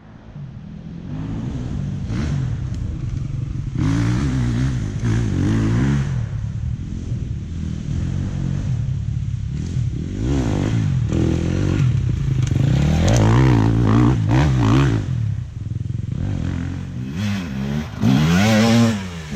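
Dirt bike engine being ridden hard, revving up and falling back again and again as the throttle is opened and closed.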